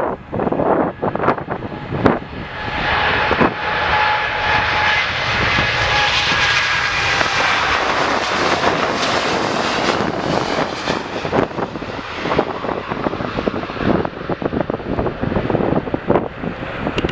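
Jet airliner's engines passing by, the roar building a few seconds in with a brief steady whine, then holding loud for several seconds, probably on departure. Gusts of wind buffet the microphone.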